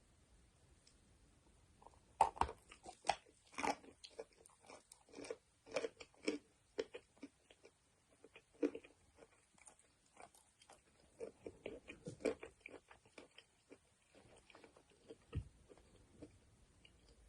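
Close-up biting and crunchy chewing of chalk. It starts about two seconds in as a quick run of sharp crunches, then thins out into softer chewing.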